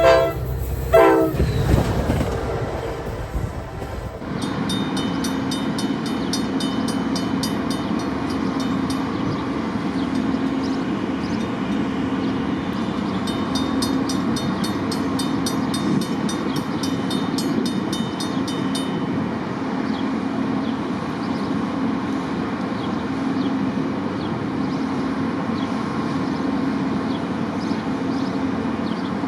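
CSX freight locomotive's horn sounds two short blasts, then the long freight train rolls past with a steady rumble and hum. For stretches there is fast, even ticking over the rumble.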